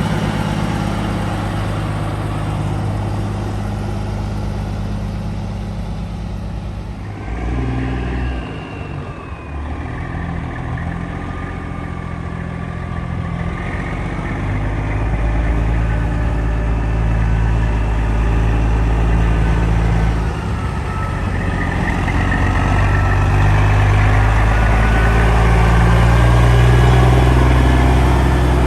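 Heavy diesel truck engines running at low revs. About seven seconds in the sound changes abruptly, and it builds louder toward the end as an engine works harder.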